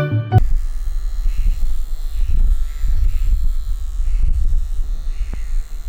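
Cordless pet hair trimmer with a small detail blade running steadily while clipping the hair around a dog's eyes.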